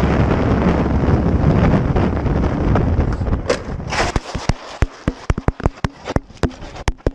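Steady road and engine noise of a car on the move, which gives way about four seconds in to a quick, irregular run of sharp cracks, several a second, on a much quieter background.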